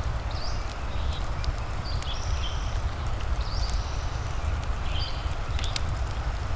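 Wood fire crackling with sharp, irregular pops over a steady hiss of rain and a low rumble. A bird gives short high chirps several times.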